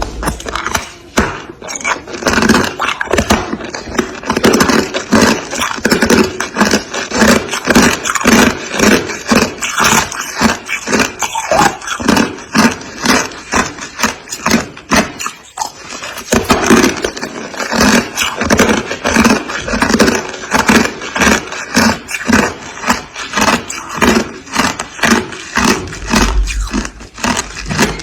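Freezer frost being scraped off in rapid, repeated noisy strokes, with a short break a little past halfway.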